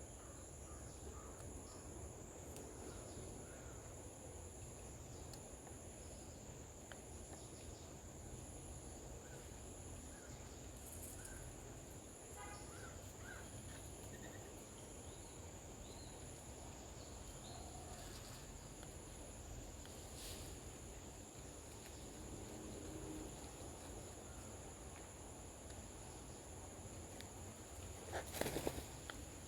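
Outdoor garden ambience dominated by a steady, high-pitched insect drone, one strand of it pulsing about once a second, over a low rumble, with a few faint bird chirps. A brief louder rustle comes near the end.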